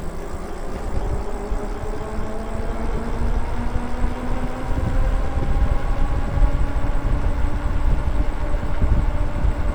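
Electric bike motor whining while riding, its pitch climbing slowly and steadily as the bike gathers speed, over a low rumble of wind on the microphone that grows louder.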